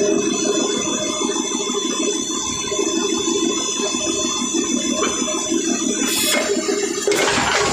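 A machine running with a rapid, even pulsing and a steady high whine, joined by a rushing hiss that swells briefly about six seconds in and again near the end.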